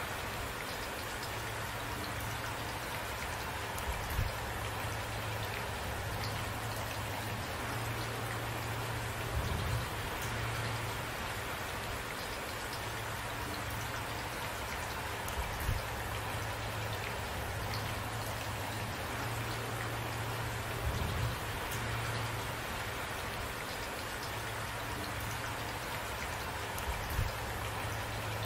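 Steady rainfall with drops pattering on a surface. A handful of louder single drops or splats stand out, about every five or six seconds.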